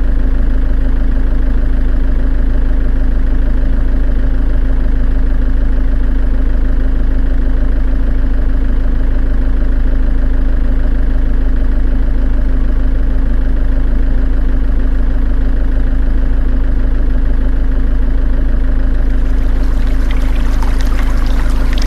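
A small motor running steadily with an unchanging hum. Near the end a crackling hiss joins in.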